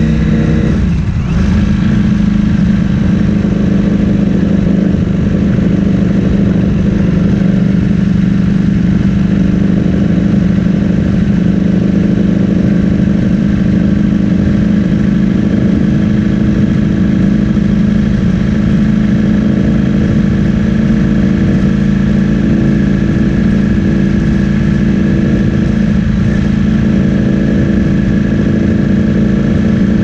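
Ducati Streetfighter V4S's 1103 cc V4 engine through an Akrapovic full-system exhaust, running at steady revs with a brief dip in engine speed about a second in.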